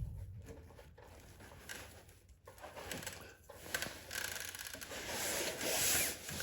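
Light rubbing and scraping as a small rubber vacuum line is worked onto a fitting on a snowblower carburetor, with a few small clicks; it grows a little louder over the last couple of seconds.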